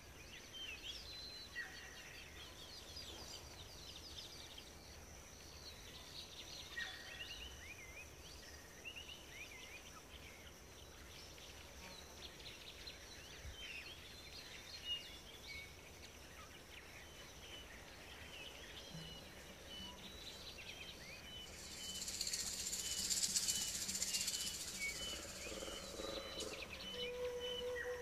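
Birds chirping and calling in many short, quick notes over a steady high-pitched whine. A louder hissing buzz swells up about two-thirds of the way in, and low held music tones come in near the end.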